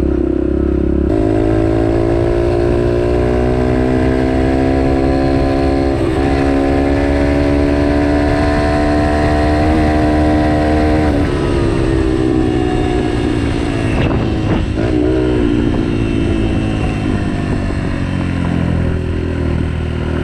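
Yamaha TT-R125 dirt bike's single-cylinder four-stroke engine pulling away about a second in, its pitch climbing slowly for about ten seconds as the bike rides along. It then eases off, the pitch falling back and staying lower to the end.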